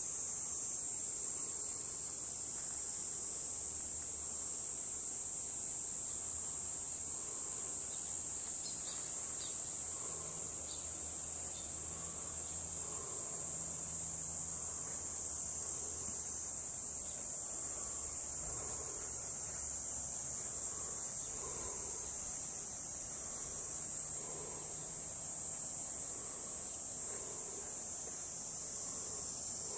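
Steady, high-pitched buzzing chorus of insects, unbroken throughout, with a faint low hum beneath.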